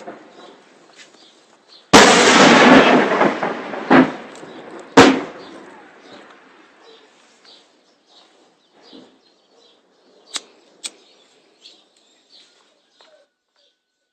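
Artillery shell explosions: a very loud blast about two seconds in that rumbles away over a few seconds, two more sharp blasts at about four and five seconds, then two short, sharp cracks a little after ten seconds.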